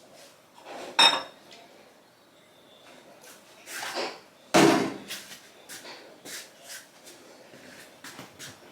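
Kitchenware clattering: a sharp, ringing clink about a second in, a louder knock about four and a half seconds in, then a run of lighter taps and clicks.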